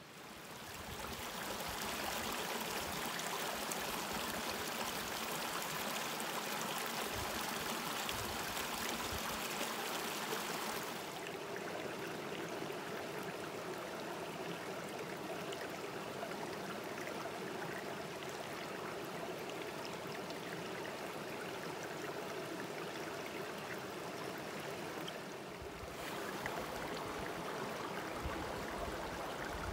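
Mountain stream water rushing steadily over rocks, fading in over the first couple of seconds. Its sound changes abruptly about a third of the way in and again near the end, as if moving to a different stretch of the stream.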